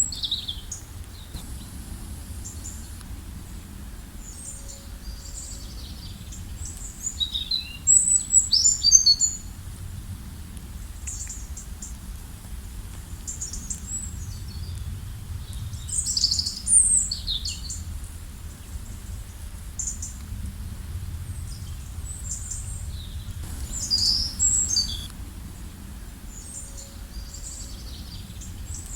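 Several songbirds chirping and trilling in high, short phrases that come in clusters every few seconds, over a steady low background rumble.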